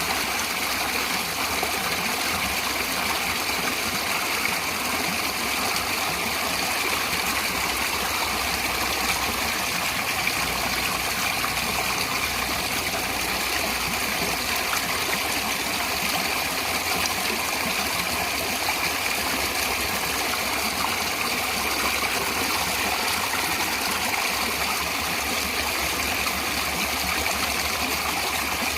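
Natural running water, a steady even rushing flow without pauses or changes.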